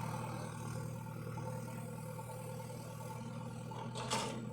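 Tractor engine running at a steady speed, with a short sharp noise about four seconds in.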